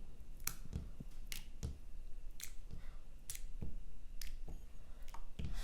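Light, irregular clicks and taps, about nine over five seconds, as a piece of chicken is dipped and worked in a bowl of beaten egg for breading.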